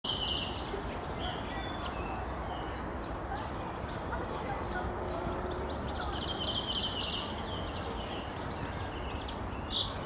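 Small birds chirping and calling in short, repeated trills, with a brief louder call near the end, over a steady low rumble of background noise.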